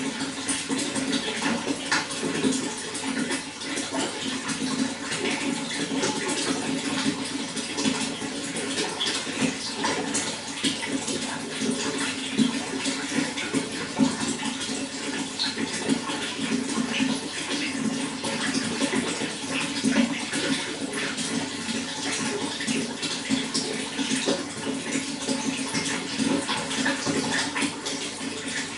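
Running water, a steady, unbroken splashing flow.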